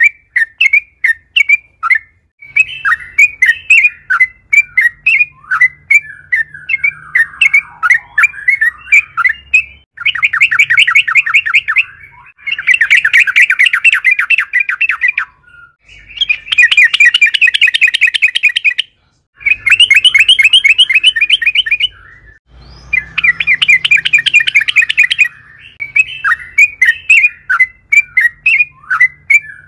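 Yellow-vented bulbul (trucukan) singing: loud runs of short chirps, then from about ten seconds in five long, fast rattling trills of two to three seconds each with brief pauses between them, going back to chirps near the end.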